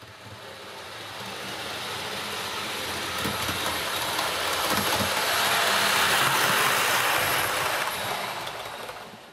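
HST train running: a steady mechanical rush that grows louder to a peak about six seconds in, then drops away near the end.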